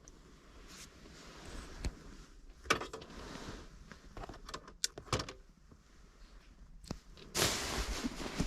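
Scattered clicks and knocks of doors or fittings being handled inside a kei car, then about seven seconds in a sudden loud, steady rush of strong wind noise.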